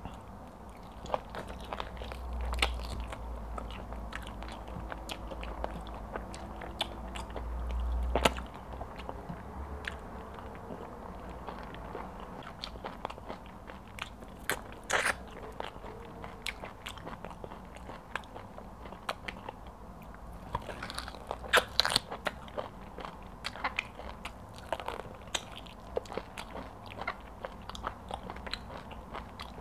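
Close-miked eating sounds of a person eating pounded yam and egusi soup by hand: wet chewing, lip smacks and many small mouth clicks. There is a low thud a couple of seconds in and another about eight seconds in.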